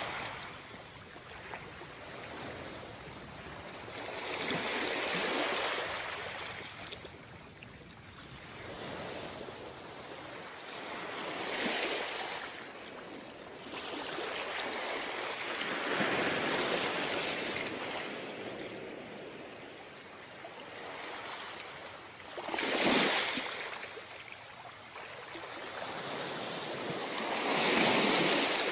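Ocean waves breaking on a beach, the surf swelling and falling back every few seconds, with a sharper, louder break about 23 seconds in and another near the end.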